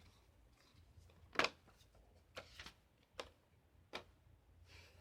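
A few light taps and clicks from handling a tablet and its packaging, the loudest about a second and a half in, then three smaller ones spaced about a second apart.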